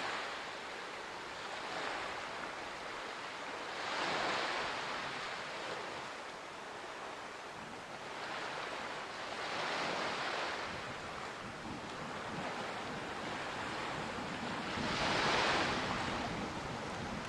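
Ocean surf: a steady wash of waves with three larger waves surging in, about five to six seconds apart.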